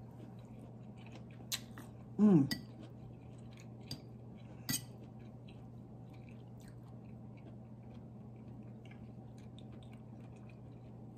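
A person chewing a mouthful of beef and broccoli stir fry, with faint wet mouth ticks and a couple of sharper clicks. About two seconds in comes a brief 'mm' that falls in pitch, the loudest sound here.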